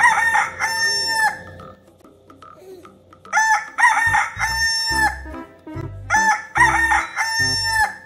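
Rooster crowing three times, about three seconds apart, the first crow already under way at the start. A low pulsing music beat comes in about halfway.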